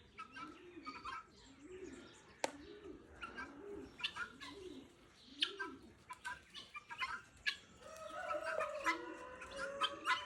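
Doves cooing, a run of soft low coos repeated roughly every two-thirds of a second, with short chirps of small birds scattered through. Near the end comes a longer drawn-out bird call that slowly falls in pitch.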